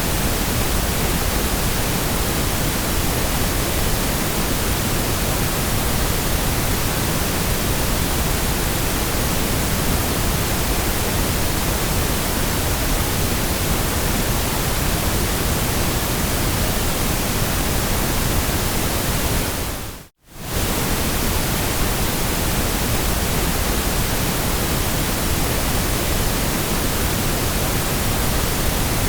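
Steady synthetic white noise, an even hiss across all pitches, that drops out for a split second about twenty seconds in.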